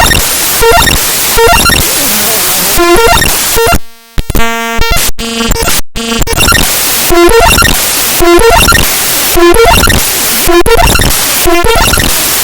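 Raw binary data of the Windows imageres.dll file played back as audio: loud, harsh static-like noise with short tonal blips repeating less than a second apart. About four seconds in it drops out briefly, then gives way for a couple of seconds to a buzz of steady layered tones with abrupt cutouts, before the pulsing noise returns.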